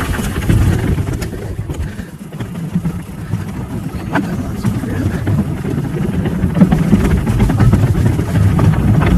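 Riding noise of a mountain bike on a dirt trail: a steady low rumble of wind on the microphone and tyres rolling over dirt, with scattered clicks and rattles from the bike.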